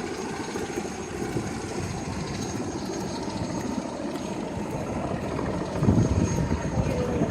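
Medical helicopter running on its pad before lift-off: a steady turbine and rotor noise with a thin high whine, growing louder with a deeper rumble near the end.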